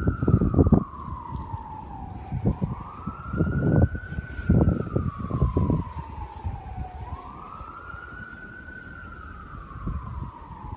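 Emergency-vehicle siren in a slow wail, rising and then falling in pitch about every three and a half seconds, over low rumbling noise that comes in loud bursts during the first half.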